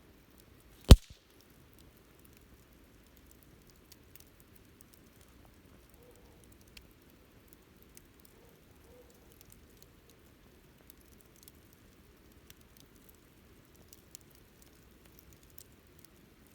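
Wood campfire crackling: one loud, sharp pop about a second in, then faint, scattered snaps over a soft low hiss of the burning fire.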